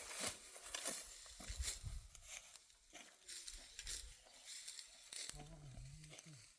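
Dry barley stalks being pulled up and rustled by hand: a quick run of crackling, tearing snaps. About five seconds in, a short low wavering tone, like a voice humming, sounds for about a second.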